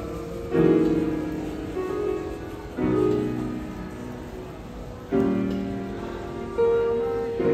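Piano played slowly: four sustained chords struck a couple of seconds apart, each ringing on and fading before the next.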